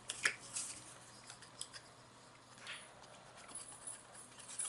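Faint, scattered taps and light rustles of paper being handled and laid on a table, with one sharper tap just after the start.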